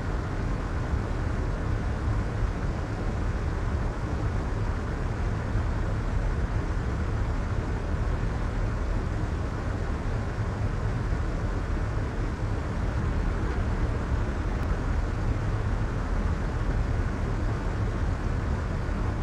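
Soft white noise: a steady, unchanging wash of noise, heaviest in the low end and rolled off in the highs, so it sounds like a soft rumbling hiss.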